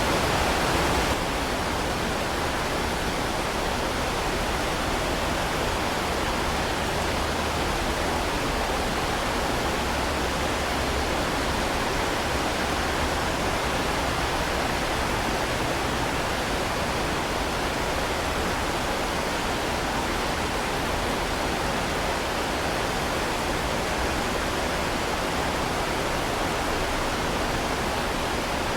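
Heavy rain falling as a steady, dense hiss, dropping slightly in loudness about a second in.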